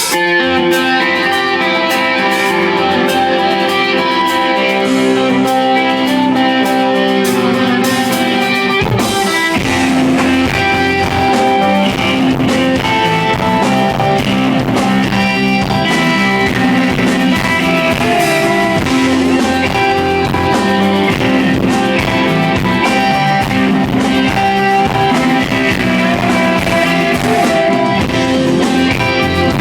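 Live rock band playing: the song opens on guitar alone, with steady picked notes, and the rest of the band, with low end and drum hits, comes in about nine seconds in.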